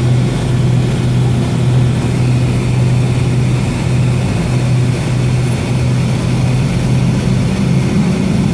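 Cabin noise of a Boeing 757-232 with Pratt & Whitney PW2037 engines running at low taxi thrust: a steady low hum over an even rushing noise.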